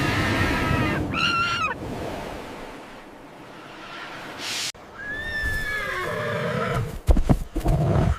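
Horse whinnying: a short quavering call about a second in, then a longer drawn-out whinny, followed by several sharp hoof knocks near the end.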